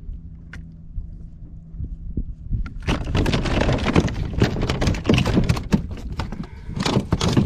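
Water splashing, with knocks and thumps against the kayak, as a bass thrashes and is landed. A quiet steady hum comes first, then the splashing and knocks start about three seconds in and stay loud.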